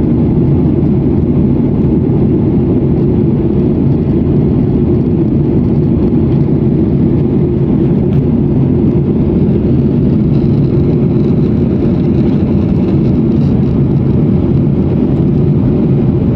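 Steady low drone of a jet airliner's engines and rushing air, heard from inside the passenger cabin during the climb after takeoff. A faint high whine joins about ten seconds in.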